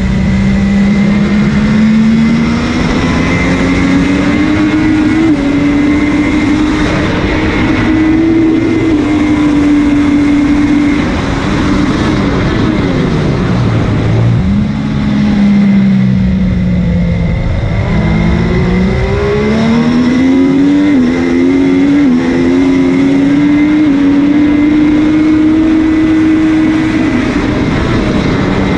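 MV Agusta F3's three-cylinder engine at full race pace, heard on board over rushing wind. It pulls up through the gears, drops sharply on braking and downshifts about halfway through, then accelerates again with several quick upshifts and holds high revs.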